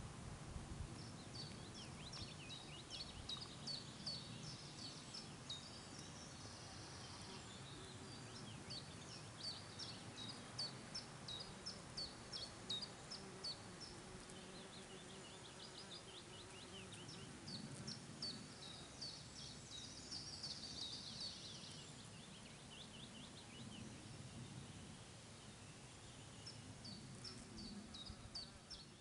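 Faint birdsong: runs of quick, high chirping notes, several seconds long and coming again and again, over a steady low outdoor background hiss.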